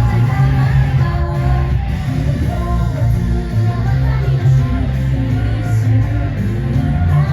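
Live idol-pop performance: a loud backing track with electric guitar and a heavy bass, with singing over it.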